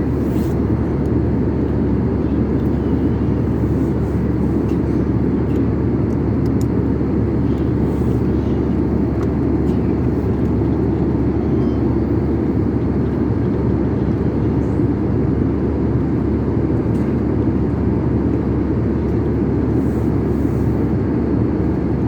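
Steady low roar of a passenger airliner's cabin noise, from its engines and airflow, holding level without change.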